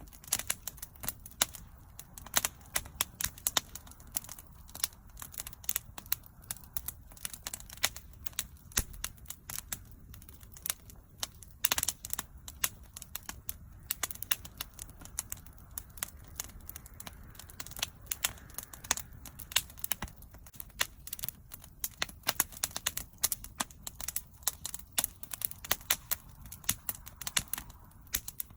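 Wood bonfire crackling: dense irregular pops and snaps of burning wood over a low steady rumble of the flames.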